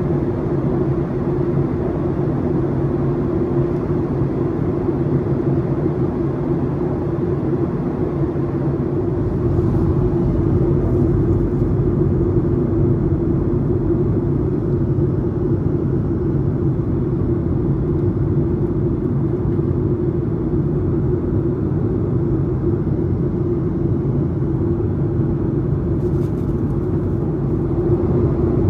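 Steady engine rumble and hum inside the cabin of a Boeing 737-800, its CFM56-7B engines at idle, typical of the jet taxiing after landing. The noise swells slightly about nine seconds in.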